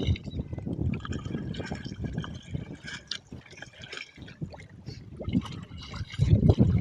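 Water splashing and trickling in short irregular bursts. Wind buffets the microphone with a low rumble, strongest near the end.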